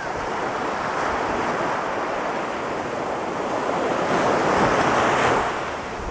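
Ocean surf breaking and rushing up the beach, swelling in at the start and loudest about four to five seconds in before easing off.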